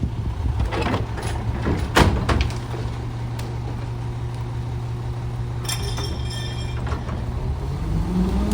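Garbage truck engine idling, with a sharp clank about two seconds in and a few lighter knocks, then the engine speeds up near the end.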